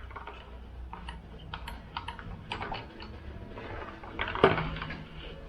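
Light scattered clicks and taps of a cylinder hone being handled while its stones are wetted with kerosene, with one louder knock about four and a half seconds in.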